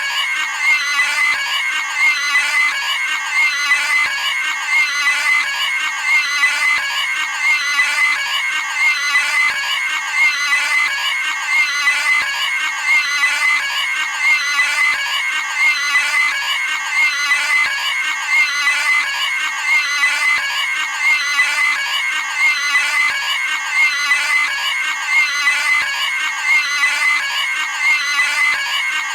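Cartoon pig screaming: the same shrill squeal looped over and over, about one every second and a half, with no pauses.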